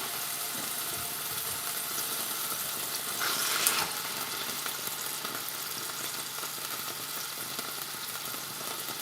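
Chicken breasts frying in oil and butter in a pan over medium heat, a steady sizzling hiss that briefly grows louder about three seconds in.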